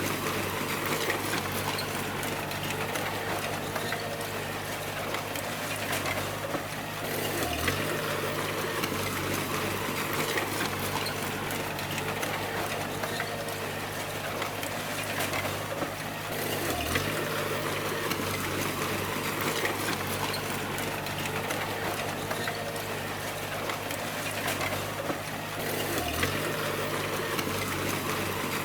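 Bulldozer diesel engine running under load with continuous track and material noise. The engine note dips briefly about every nine seconds, about 7, 17 and 26 seconds in, as in a dozer's push-and-reverse cycle.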